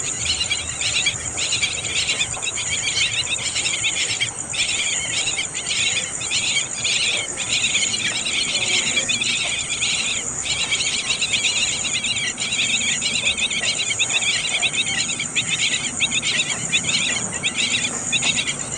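Young songbirds chirping in a rapid, continuous chatter, with a steady high buzz above it.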